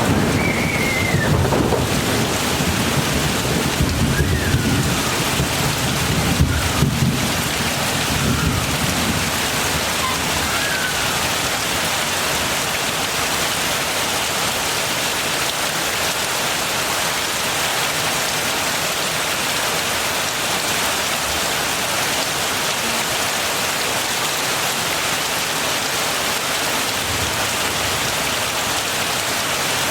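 Heavy rain falling steadily, an even hiss of drops. A low rumble of thunder rolls through the first eight seconds or so and fades away.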